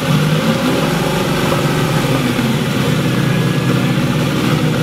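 A car engine running steadily at an even speed, with no change in pitch.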